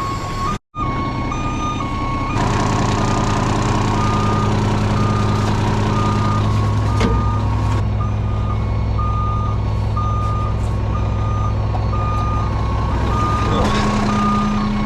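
Heavy truck's reversing alarm beeping about once a second over a diesel engine running steadily. The engine gets louder about two seconds in and stays up until near the end. There is a brief dropout near the start.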